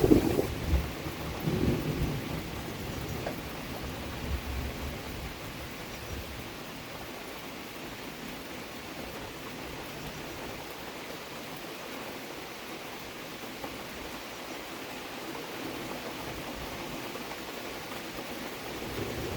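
Steady rain falling, an even hiss. In the first few seconds a low rumble swells and fades under it.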